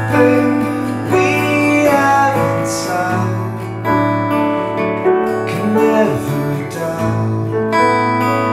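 Live song with guitar strumming chords and piano playing along over a steady bass note, a new chord coming in about once a second.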